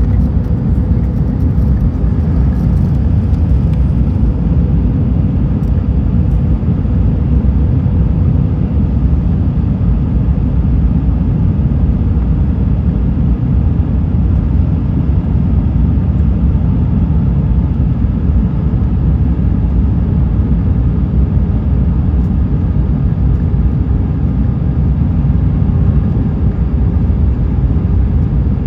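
Steady cabin noise inside an Airbus A320: a low, even rumble of engines and airflow with a faint steady hum running through it.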